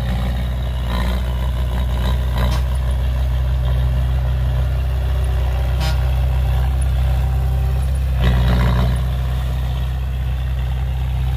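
Heavy diesel engine of earth-moving machinery running steadily with a deep hum, with a few short clanks and a louder, longer rattling noise about eight seconds in.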